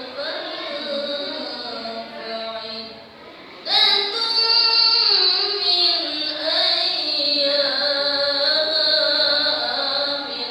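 A student's solo voice reciting the Qur'an in melodic tilawah style, holding long ornamented notes that slide between pitches. The voice pauses briefly about three seconds in, then starts a new phrase loudly just before four seconds.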